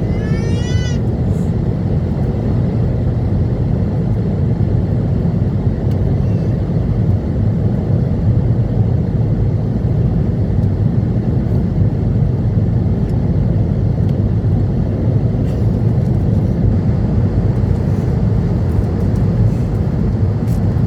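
Airbus A320neo cabin noise during takeoff and climb: the Pratt & Whitney PW1100G geared turbofans and rushing airflow make a loud, steady roar that sits mostly low in pitch.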